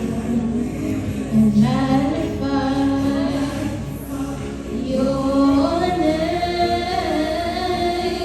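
Group of voices singing a sustained, gliding melody, choir-like.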